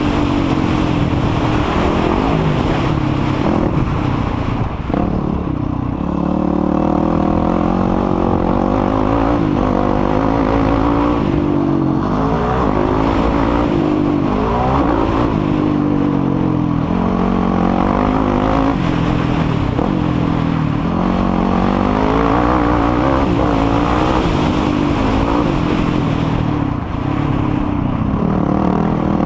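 Racing quad engine being ridden hard on a motocross track, revving up and falling back again and again, its pitch rising and dropping every second or two over a steady low rumble.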